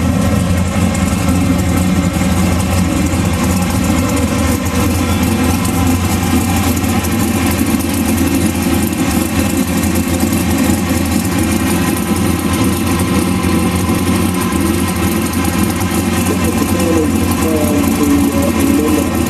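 Big-block V8 engine idling steadily, a deep even running note that holds unchanged throughout.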